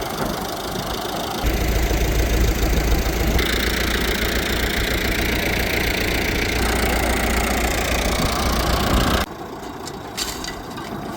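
Tractor engine running, with a heavy low rumble. From about a second and a half in it is louder, and near the end it cuts off abruptly to a quieter background with a few clicks.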